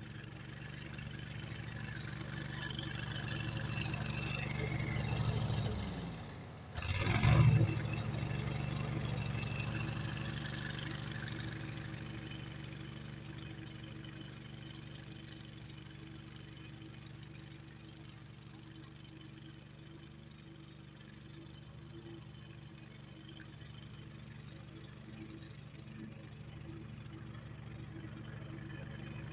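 Poulan Pro riding lawnmower's 25-horsepower engine running steadily with the mowing blades on. About seven seconds in it dips briefly, then comes back suddenly loud. Later it fades and slowly grows louder again.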